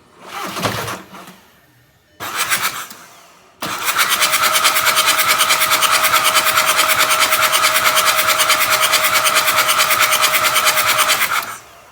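Volkswagen Jetta engine being started: two short bursts of cranking, then a long steady run of about eight seconds with a fast, even pulse, which cuts off abruptly near the end.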